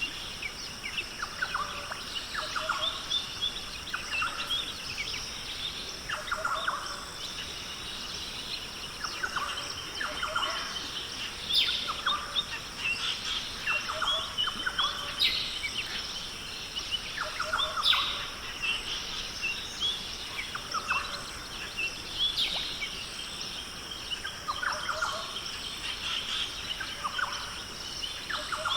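Rainforest birds calling. A lower bird repeats a short call every two to three seconds, and smaller birds chirp and trill higher up, all over a steady high-pitched drone.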